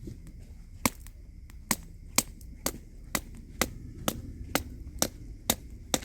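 A steady series of sharp chopping knocks, about two a second.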